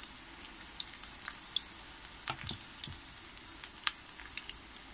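Onion fritters frying in hot oil in a frying pan: a steady sizzle with scattered crackling pops.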